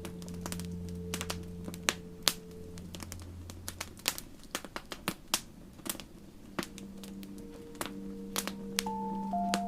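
Wood campfire crackling with sharp pops, thickest in the middle, under soft ambient music of long held tones that fade out about a third of the way through, with new tones coming in during the second half.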